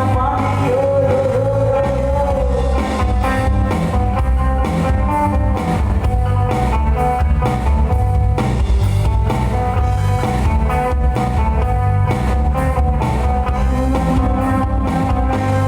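Live band music with no words: a guitar-led instrumental passage over bass and a steady drum beat.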